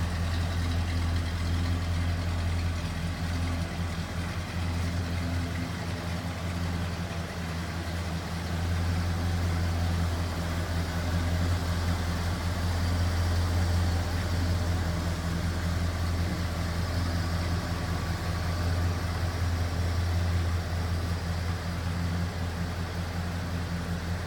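1986 Ford F250 pickup's engine idling steadily, with an even low note that holds without revving.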